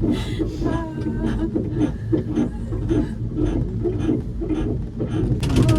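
Small pier train riding along, with a wavering hum and frequent irregular clatters and knocks as it rolls over the wooden pier deck.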